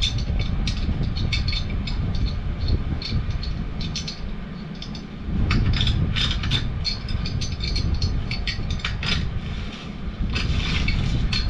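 Irregular metallic clicks and clanks of pipe wrenches gripping and turning a furnace gas valve on its gas piping, over a steady low rumble.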